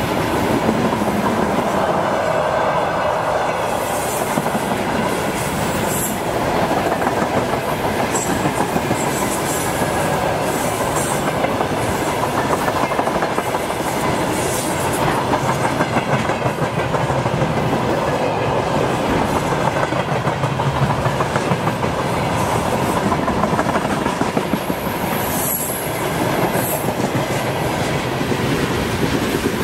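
A train rolling past on the track, its wheels clattering steadily over the rails, with a brief high wheel squeal about 25 seconds in.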